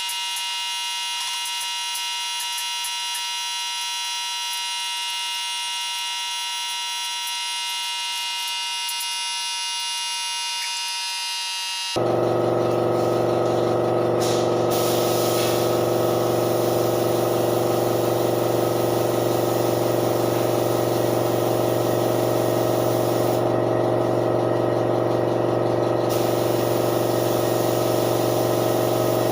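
Steady machine hum made of many even tones. About twelve seconds in it switches abruptly to a louder, deeper steady hum.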